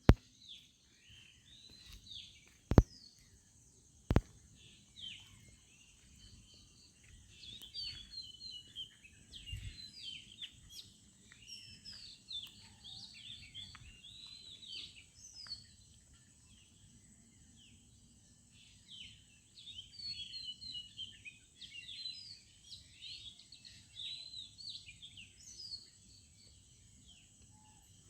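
Many small birds chirping and twittering together in a morning chorus, thin at first and then in dense bursts of quick high calls, over a faint steady high whine. Two sharp clicks about a second and a half apart near the start are the loudest sounds.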